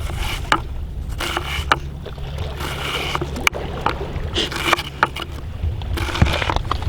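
Wind rumbling on the microphone over waves washing on a beach, with scattered short clicks and taps.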